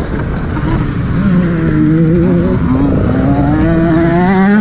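Alta Redshift MXR electric dirt bike's motor whining, its pitch rising and falling with the throttle while riding, over wind and rumble.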